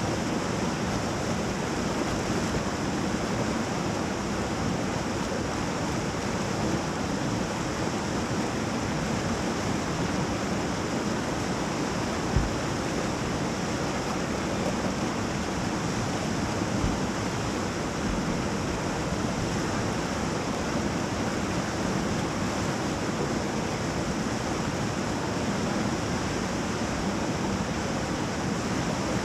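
Whitewater rapid on a river, rushing steadily, with a brief low thump near the middle.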